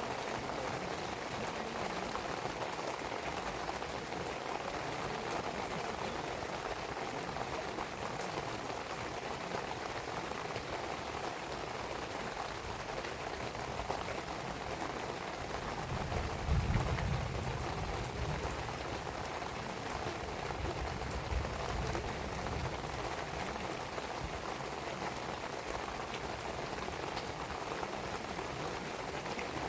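Steady rain falling, with scattered small pops from a wood fire burning. A low rumble swells up for a couple of seconds about sixteen seconds in.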